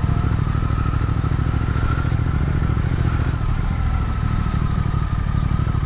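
Motorcycle engine running at a steady pace on the move, a low even rumble that holds without revving up or down.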